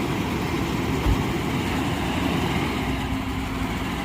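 A vehicle engine idling steadily, a low rumble with a faint steady hum, and one brief low thump about a second in.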